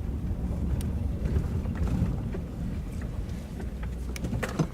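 Low, steady rumble of a vehicle rolling slowly, with a few faint light clicks scattered through it.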